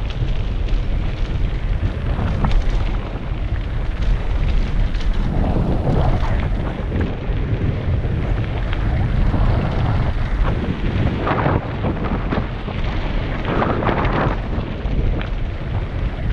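Heavy wind rumble buffeting a helmet-mounted action-camera microphone on a fast downhill bike ride, with the bike's tyres and frame rattling and knocking over the rough road surface.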